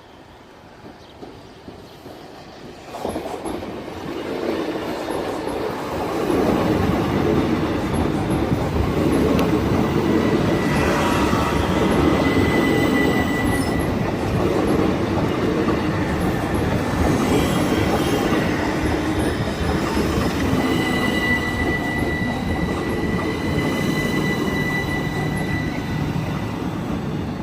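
Class 375 electric multiple unit passing over a level crossing. The train's running noise rises about three seconds in and stays loud. A thin, high wheel squeal comes twice, once around the middle and again for several seconds near the end.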